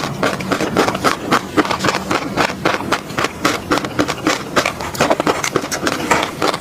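Close-miked wet mouth sounds of eating a thick peanut sauce: rapid sticky smacking and clicking of lips and tongue, several a second.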